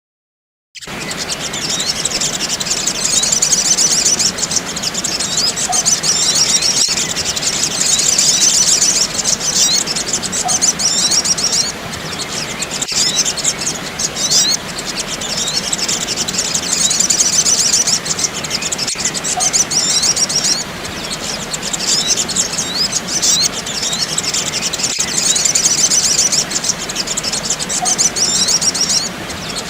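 Recorded sunbird lure call: a dense, continuous chorus of rapid, high-pitched chirps and twitters that swells and eases every few seconds, starting just under a second in. Faint single clicks recur about every six seconds.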